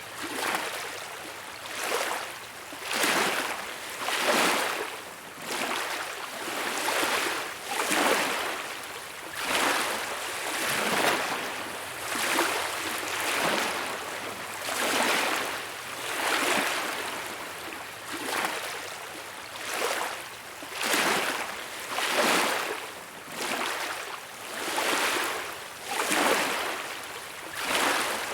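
Small beach waves lapping at the shore: a wash of surf that swells and fades about every one and a half seconds.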